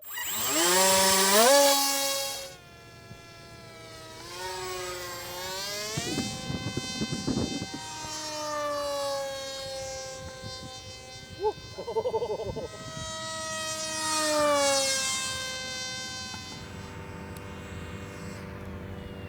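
Electric motor and propeller of an H-King RADJet 800 RC plane whining in flight, the pitch sliding up and down as it passes, loudest about a second in and again near 15 seconds, with a steadier hum near the end.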